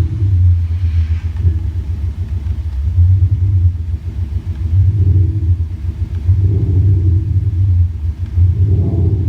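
Porsche Cayenne Diesel with a Maxhaust active sound booster playing a Maserati-style engine sound: a deep, steady rumble that rises and falls in pitch several times.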